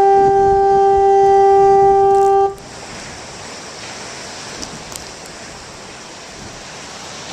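Beavertail Lighthouse foghorn sounding one loud, steady, single-pitched blast that stops abruptly about two and a half seconds in. After it comes the steady noise of surf and wind.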